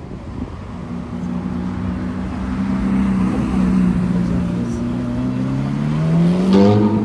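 Ferrari F430's V8 engine running at low revs, then rising steeply in pitch near the end as the car accelerates away.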